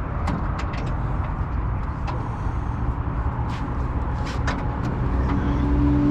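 A motor vehicle's engine running with a steady low rumble, joined by a steady droning tone about five seconds in, with a few short clicks scattered through.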